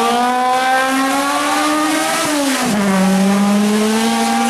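A modified Honda Civic hatchback drag car's four-cylinder engine at full throttle, its pitch climbing as it accelerates off the start line. About two and a half seconds in, the pitch drops sharply with an upshift, then climbs again.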